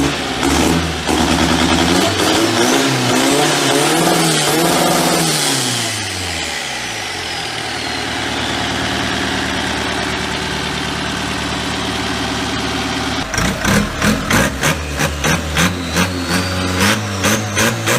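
Speedboat engine revving: it climbs in pitch, falls back, runs steadily for several seconds, then from about two-thirds of the way through pulses in quick regular surges, roughly two to three a second.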